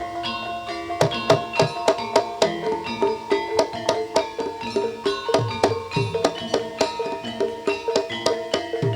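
Banyumasan gamelan music for ebeg: struck metal-keyed instruments play a busy repeating melody over kendang hand-drum strokes in a steady rhythm.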